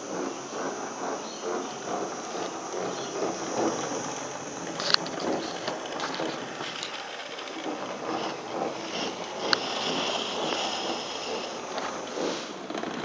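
Hornby OO gauge model Jinty tank locomotive running along the track while shunting: a steady clattering rattle of the small motor and wheels on rails, with two sharp clicks, about five seconds in and again near ten seconds.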